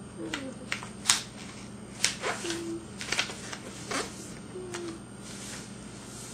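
A sheet of paper crackling and rustling in short, irregular bursts as it is folded and creased by hand, over a low steady hum.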